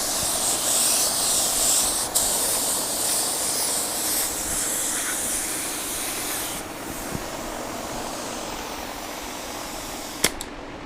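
Paint spray gun hissing as clear coat is sprayed, with a brief break about two seconds in; the spraying stops about two-thirds of the way through, leaving a quieter steady background and a sharp click near the end.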